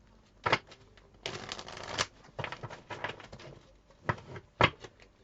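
Tarot cards being shuffled and handled: a sharp card snap about half a second in and another near the end, with a longer rustling run of shuffling between about one and two seconds in.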